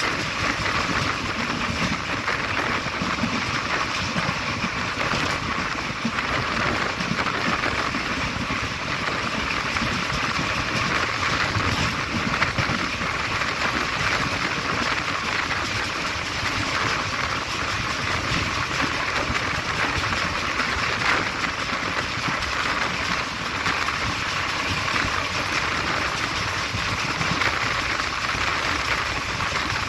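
Passenger train coach running steadily at speed, heard from its window: a continuous rush of wheels on the rails and air going past.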